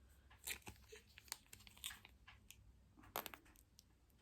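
Faint, scattered crunches and crackles of Doritos tortilla chips being handled in a loaded nacho pile, with a handful of sharper cracks among them.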